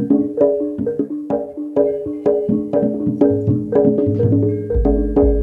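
Javanese gamelan-style instrumental music: tuned mallet percussion struck in a steady beat, notes ringing on, with a deep gong-like low note entering near the end.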